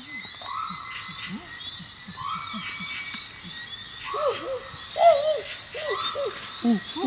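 Animal calls: a short call repeating about every second and a half to two seconds over many quick low chirps, with more calls crowding in from about four seconds in.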